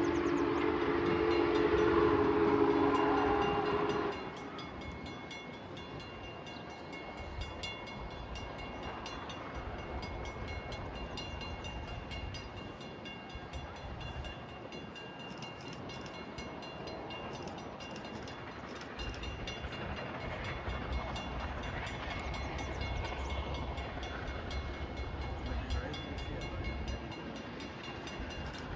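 A train's whistle holding a loud chord, which cuts off about four seconds in. It is followed by the steady rumble and rolling of the passing train, with a faint high squeal from the wheels.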